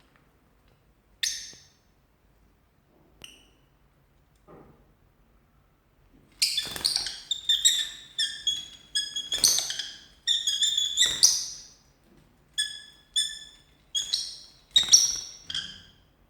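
Lovebirds giving short, shrill, high-pitched squawks, a few at first and then a rapid run of them from about six seconds in: agitated calls during a fight.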